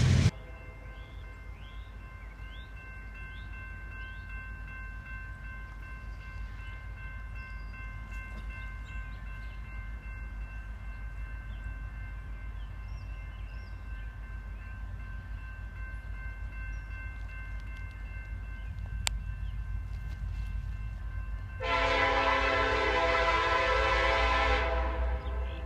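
Low, steady rumble of an approaching freight train with faint chirps, then a diesel locomotive's air horn sounds one long blast of about three seconds near the end.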